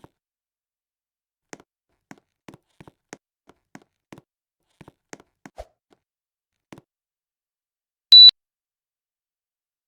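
Faint scattered clicks, then a single short, loud, high-pitched beep from an air conditioner unit a little over eight seconds in, the beep the unit gives on receiving a remote command.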